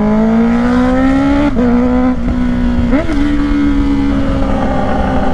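Honda CBR650R inline-four running through a Black Widow exhaust with its dB killer removed, very loud. It pulls with a gently rising pitch for about a second and a half, dips briefly, then holds a steady note.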